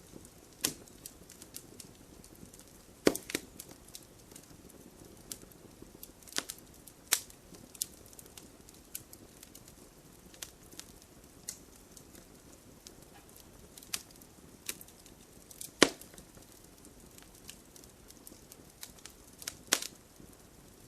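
Wood fire in a fireplace crackling, with irregular sharp pops over a soft steady hiss; the loudest pops come about three seconds in, around sixteen seconds, and near the end.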